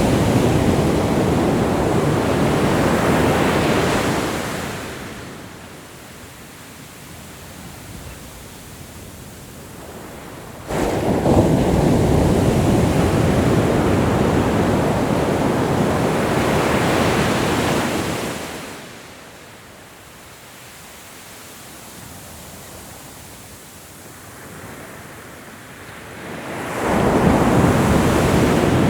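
Ocean waves breaking on the shore in slow surges, each rush of surf easing off between waves. One wave crashes in suddenly about a third of the way in, and another swells up near the end.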